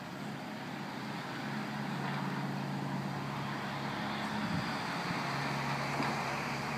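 A motor vehicle's engine running with a steady low hum over road noise, growing louder over the first couple of seconds.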